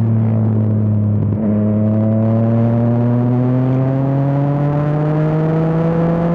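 Yamaha MT-09's inline-three engine through an Akrapovič exhaust, pulling under acceleration. After a brief break about a second and a half in, the engine note rises steadily.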